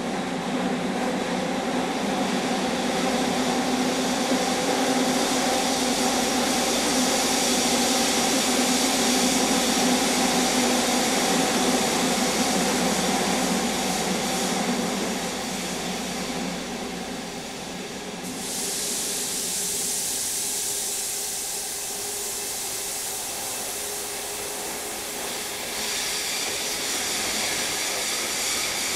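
JR Kyushu 305 series commuter train heard from inside the car: steady running noise with a hum of several steady tones. About two-thirds of the way through, the hum fades and a sudden high hiss starts.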